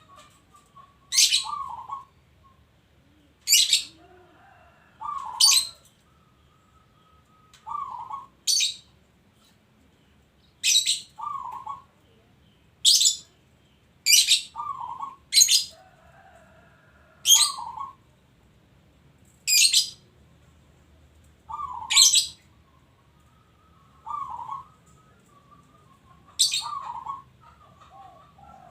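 Zebra dove in full song: short coo phrases repeated every two to three seconds. Loud, sharp, very high chirps cut in between them every second or two and are the loudest sounds.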